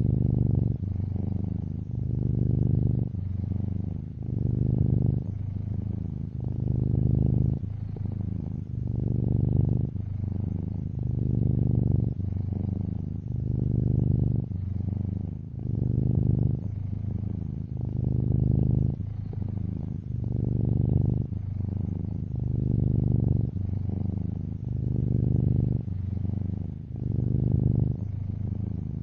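Black-and-white tuxedo cat purring steadily, the low purr swelling and easing with each breath about every two seconds.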